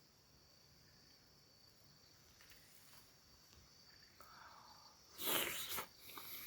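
Crickets chirping steadily in the background. About five seconds in comes a brief, loud, noisy rustle.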